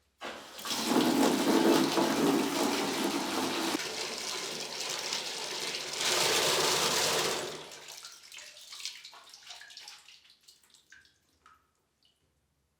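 Water gushing from newly installed temporary plumbing, a toilet or sink, for about seven seconds with a second surge near the end, then trickling and dripping away.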